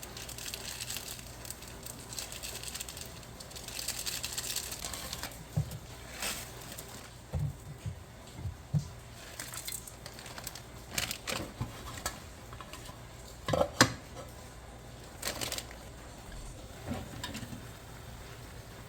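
Mukbang eating sounds: scattered clinks and taps of utensils against bowls and dishes, with short bursts of eating noise between them.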